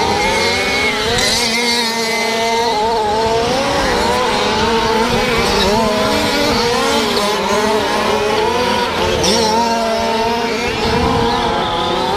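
Several fifth-scale gas RC trucks' small two-stroke engines revving up and down together while racing, with overlapping whining pitches that rise and fall as they accelerate and back off.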